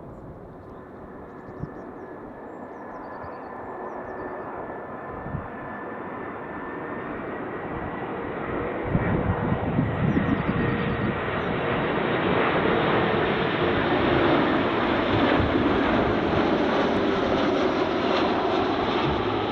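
Jet airliner on short final approach, its engines whining with steady high tones and growing steadily louder. About nine seconds in, a loud engine rumble sets in and stays at its loudest to the end as the plane comes close overhead.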